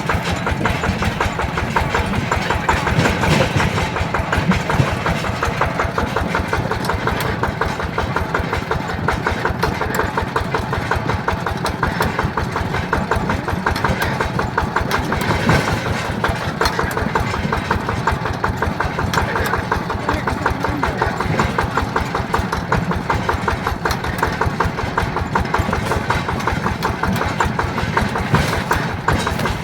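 Yanmar TF120 DI single-cylinder diesel engine running steadily, a rapid even beat of firing strokes.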